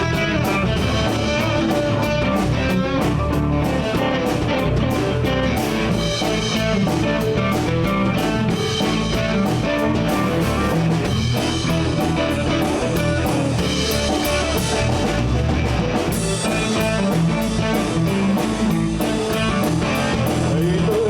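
Live blues band playing an instrumental passage: guitars over bass and drum kit, at a steady level with no singing.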